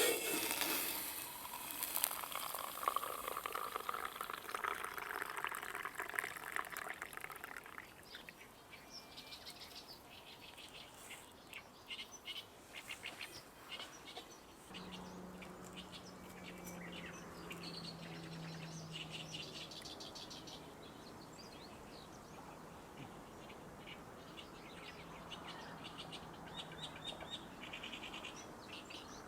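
A loud rasping, scraping sound for the first several seconds, then small birds chirping on and off.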